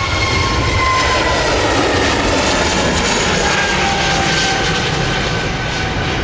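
Jet airliner passing close, its engines a loud noise with a whine that slowly falls in pitch as it goes by.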